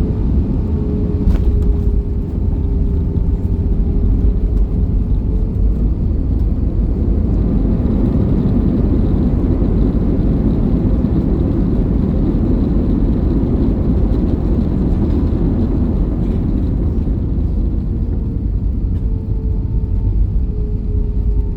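Airbus A320 on the ground after landing: a steady low rumble with a faint whine that dips slightly in pitch and returns near the end.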